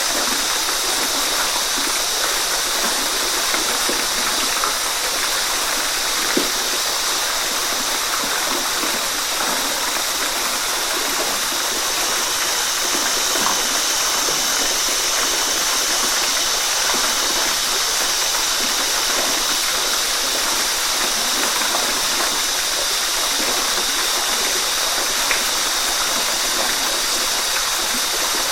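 Waterfall: a steady rush of falling water with no pauses or changes, and now and then a faint splash or drip.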